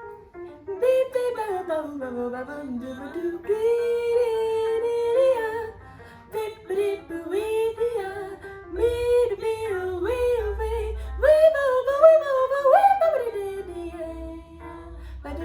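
A female jazz singer scatting a wordless improvised vocal solo, a melodic line of short and gliding notes, over guitar accompaniment, with a bass line entering about nine seconds in.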